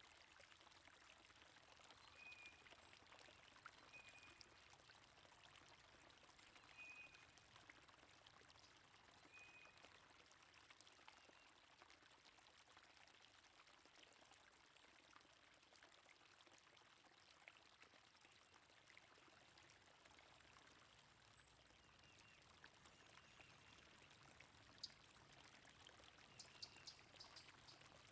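Faint, steady flowing stream water, with a few short high bird chirps in the first ten seconds and again near the end.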